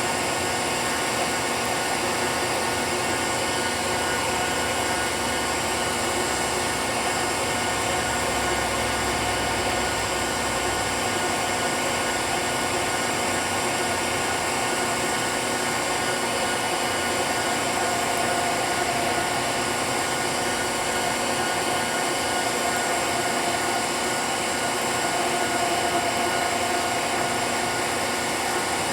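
ProtoTrak CNC milling machine running steadily, its spindle and cutter working into an aluminum block.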